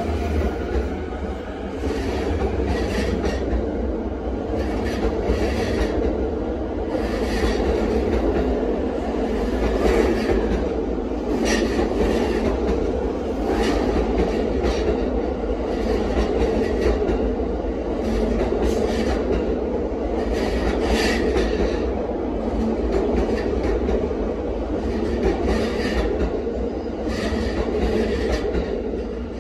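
E531 series electric multiple unit departing and rolling past, its cars running with a steady rumble. There is a repeated clatter every second or two as the wheels cross the rail joints.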